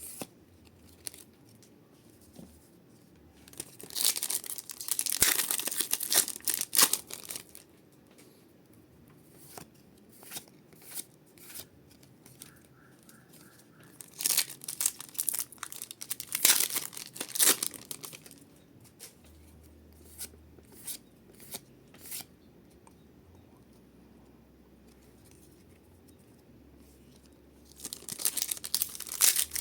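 Pokémon booster packs torn open, their foil wrappers ripping and crinkling in three spells of a few seconds each, with scattered light clicks and rustles of handling in between.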